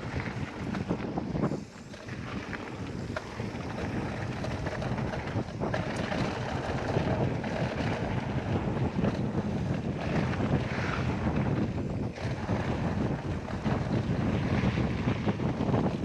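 Wind rushing over a GoPro Max's microphone while riding a mountain bike downhill on a dirt trail: a steady rumbling noise, with a few light clicks and knocks from the bike.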